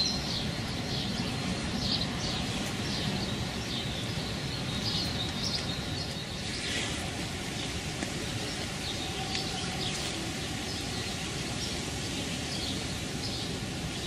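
Small birds chirping repeatedly with short high calls over a steady outdoor background hiss.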